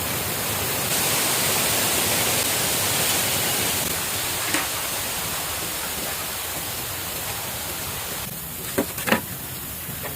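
Steady rushing hiss of water, a little louder in the first few seconds. A short knock comes about four and a half seconds in, and two sharp knocks come close together near the end.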